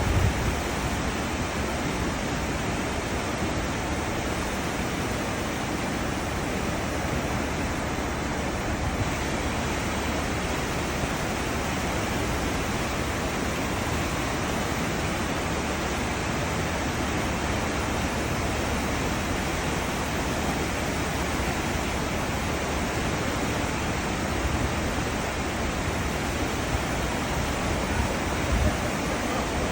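Cruise ship's wake rushing and churning as a steady, unbroken wash of foaming water, with brief low buffets near the start and near the end.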